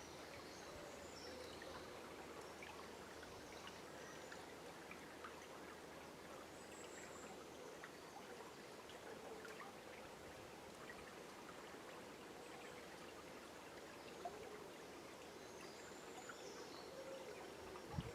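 Faint, steady flow of a river, its water trickling and babbling, with distant birds chirping high a few times.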